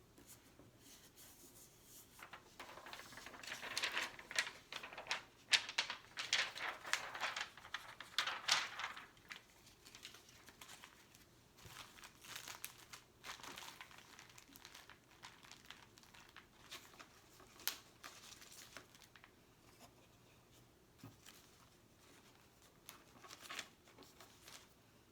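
Stickers and sticker sheets being handled: crinkling, with the tearing sound of stickers peeled from their backing. It is densest and loudest from a few seconds in to about nine seconds in, then turns to lighter, scattered crackles.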